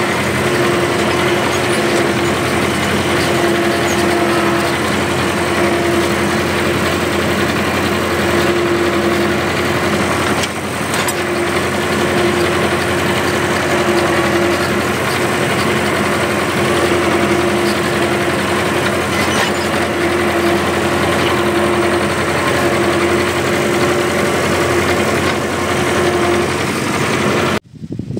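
Tractor engine running steadily at constant speed, a continuous drone with a strong steady hum; the sound cuts off abruptly near the end.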